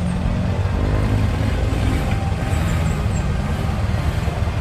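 Off-road 4x4 vehicle engine running with a steady low rumble.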